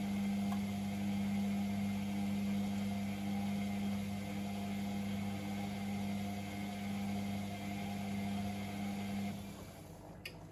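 Pump of a Privileg Sensation 952 S top-loading washing machine humming steadily, then cutting out about nine seconds in. A single short click follows about a second later.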